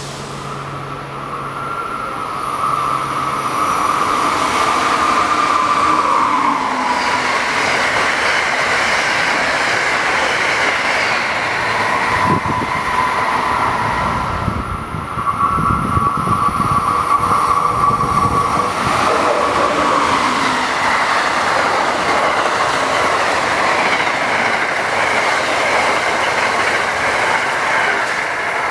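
Amtrak electric passenger train passing at speed: a steady rush of wheels on rail with a high whine that slides down in pitch, and a run of low thumps from the wheels over the rails in the middle.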